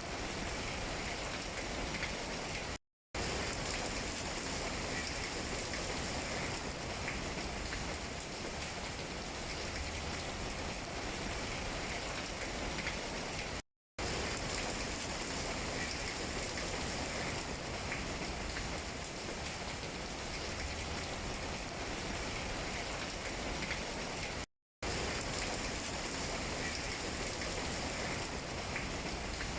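Steady rain falling on tree leaves: a constant hiss with scattered single drops ticking. Three times, about eleven seconds apart, the sound cuts out completely for a split second.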